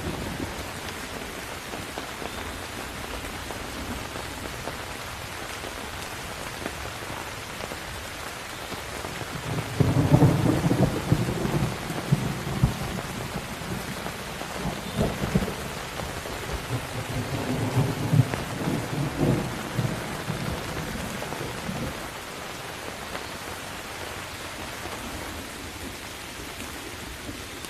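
Steady rain falling in a thunderstorm, with a long rolling rumble of thunder that starts about ten seconds in, swells in several waves and dies away after about ten seconds.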